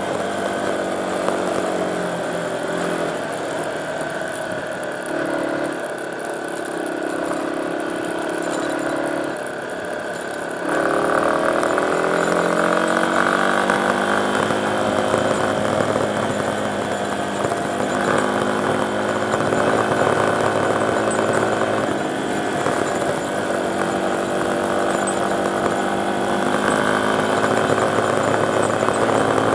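Dirt bike engine running as it is ridden, its pitch stepping and sliding with throttle and gear changes, and getting louder about a third of the way in.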